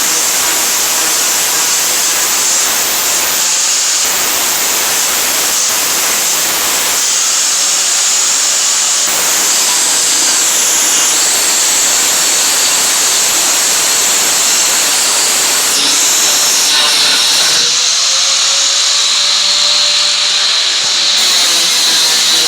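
Angle grinder grinding rust off the sheet-steel truck bed: a loud, steady gritty hiss over a motor whine, the tone shifting abruptly a few times as the disc bears on and lifts off the metal.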